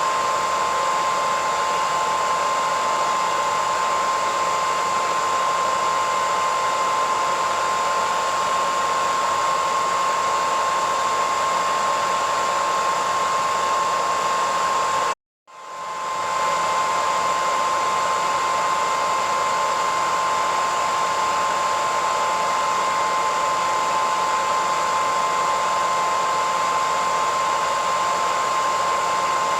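Electric hair dryer running steadily: a constant rush of air with a high whine from its motor. About halfway through it cuts out for about half a second, then swells back in.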